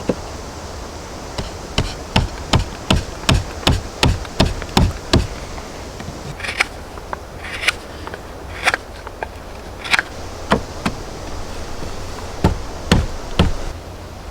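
Hammer blows on wood: a quick, even run of about ten strikes, then a pause and scattered single and paired strikes.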